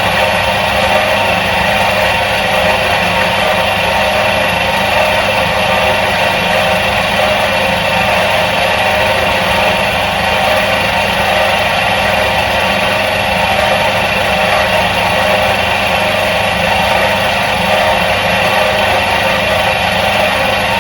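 Electric motor of a 1977 Soviet washing machine running steadily, an even hum with a constant drone and no change in speed.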